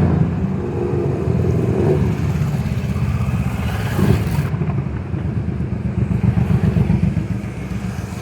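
Motorcycle engine running, a steady low throb.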